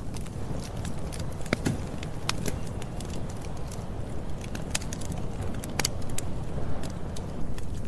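Campfire burning: burning wood crackling with frequent, irregular sharp pops over a steady low rumble.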